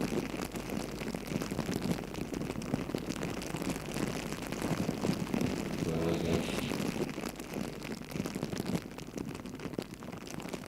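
Campfire crackling and popping, with a brief low pitched sound about six seconds in.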